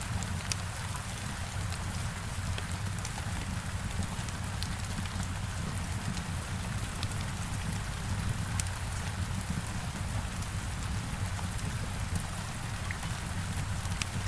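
Steady heavy rain falling against a window, with scattered sharp crackles and pops from a wood fire.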